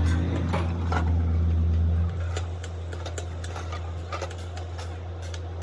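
Workshop machinery running with a steady low hum that drops in level about two seconds in, with scattered metallic clicks and knocks.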